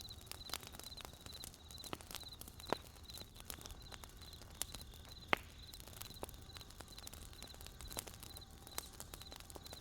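Wood campfire crackling and popping irregularly, one sharp pop louder than the rest about halfway through, over crickets chirping steadily in evenly spaced short trills.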